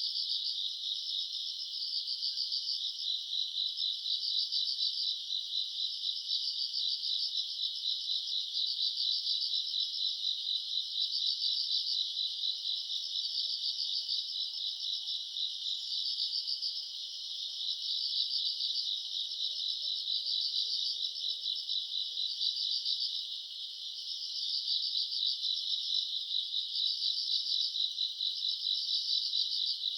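A summer-night chorus of grass insects chirping without a break: a high, rapidly pulsing trill that swells and eases in a slow repeating cycle, dipping briefly twice.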